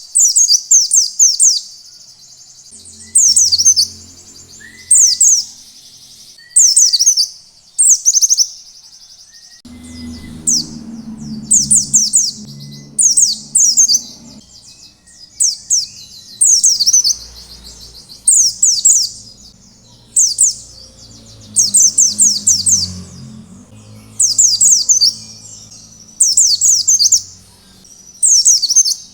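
White-eye (pleci) singing its loud, busy 'ngalas' song: short bursts of rapid, high, falling notes repeated every one to two seconds.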